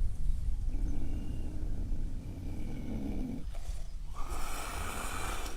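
Wild cat vocalizing: a low, rough growl lasting about two and a half seconds, then a higher, hissing call near the end.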